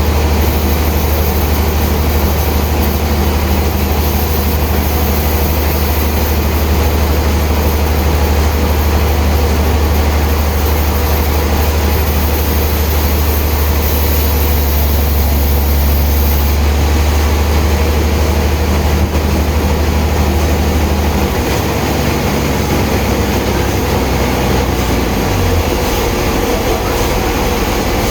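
Heavy sawmill machinery running steadily with a strong low hum, which drops away about three-quarters of the way through while the machine noise carries on.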